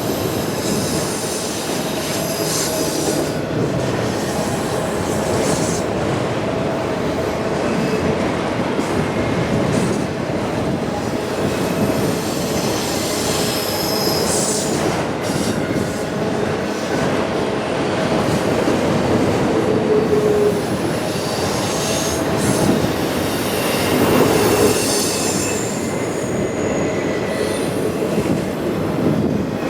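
Freight train of autorack cars rolling past at speed: a steady loud rumble of steel wheels on rail, with faint high-pitched wheel squeals coming and going.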